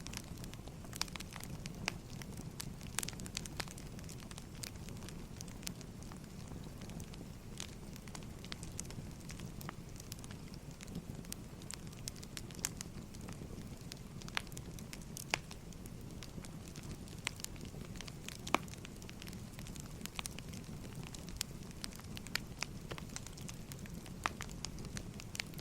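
Firewood burning: irregular sharp crackles and pops over a steady low rumble of the fire.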